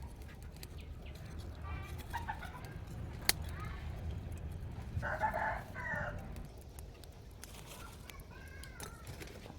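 A rooster crowing once about five seconds in, with scattered chicken clucks before and after, and one sharp click a little after three seconds.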